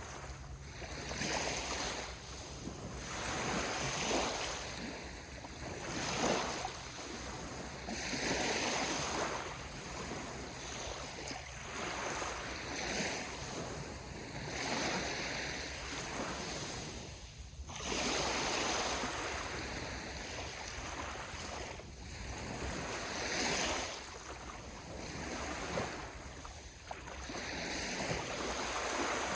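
Sea waves washing onto the shore, the surf swelling and easing every couple of seconds, with a brief dip a little past halfway.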